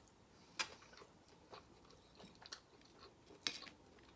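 Faint close-up chewing: a person eating breakfast sausage, with a few soft mouth clicks and smacks.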